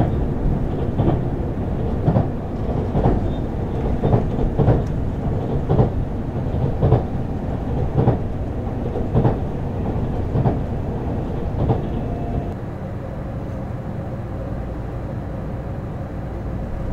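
JR Central HC85 hybrid diesel train running, heard from on board: a steady rumble with wheels clacking over rail joints about once a second. About twelve seconds in the clacking stops and a quieter steady hum takes over as the train stands at a station.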